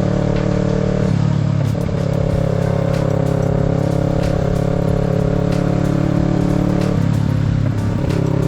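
Kawasaki Z650 motorcycle running steadily on the road, heard under background music whose chords change about a second in and again near the end.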